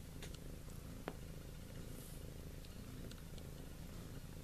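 Domestic cat purring steadily, a soft low rumble, with a couple of faint clicks from the kittens moving about.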